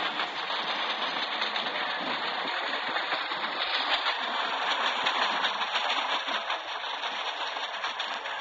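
Train running on the rails: a steady rushing noise with fine rapid rattling through it.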